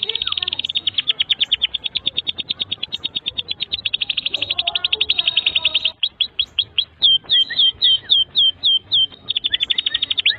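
Domestic canary singing a long, unbroken song: fast high trills of about ten notes a second, changing about six seconds in to slower, separate down-slurred notes, then back to a fast trill near the end.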